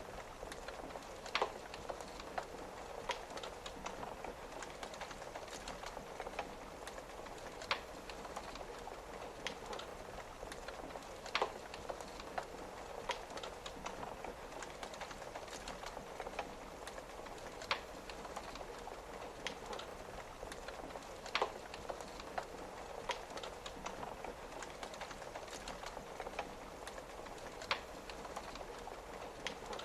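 Wood fire crackling, with scattered sharp pops, over a steady hiss of rain tapping on a window. The louder pops come about every ten seconds.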